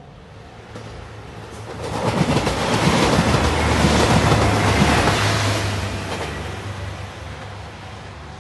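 JR 2700 series diesel multiple unit passing a level crossing at speed: the rumble and rail noise swell over about two seconds, stay loud for a few seconds, then die away. A level crossing bell rings in a steady repeating pattern underneath.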